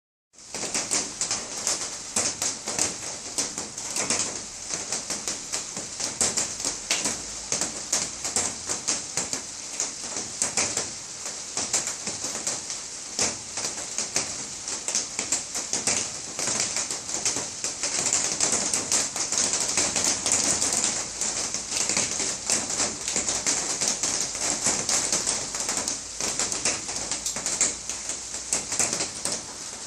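Rain falling steadily, with dense pattering of drops striking a surface.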